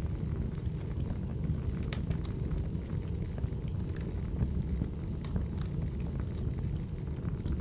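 Firewood burning: a steady low rumble of the fire with scattered sharp crackles and pops.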